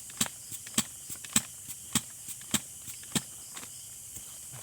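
A quick, irregular run of sharp clicks and crackles, about three a second, over a steady high-pitched drone of night insects.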